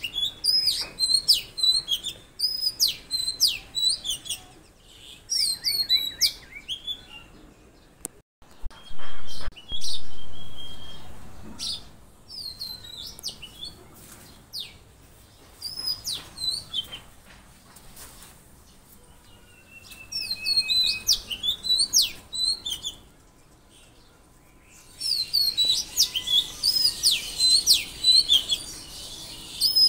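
Small songbirds chirping and trilling in short, quick high notes, several birds overlapping. There is a lull about a third of the way in, broken by two sudden louder knocks, and a denser chorus of chirps near the end.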